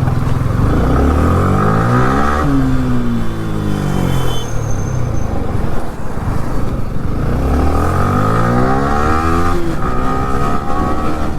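Motorcycle engine accelerating and easing off twice: its pitch climbs, drops, then climbs again before falling away, as the bike pulls away and rides on.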